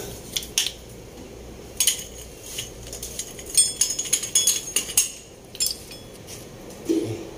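Metal tools and parts clinking and clattering against each other, in scattered sharp knocks with a quick run of ringing clinks between about three and five seconds in.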